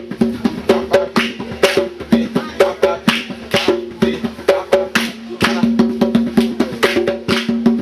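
Drums played in a fast, steady rhythm of sharp strokes, about four or five a second, with the strokes ringing at a few different pitches.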